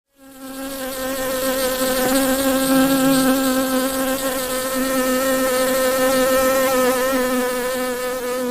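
Honeybees buzzing: a steady hum with a clear low pitch that holds unbroken throughout.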